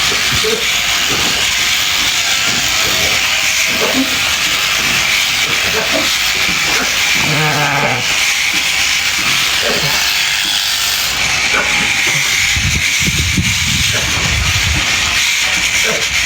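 Electric sheep-shearing clippers running with a steady, loud buzzing hiss as they cut through the fleece. A sheep bleats once, briefly, about halfway through.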